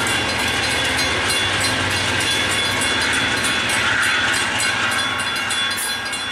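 Passenger train running away down the line: a steady rumble of wheels on the rails that starts to fade about five seconds in.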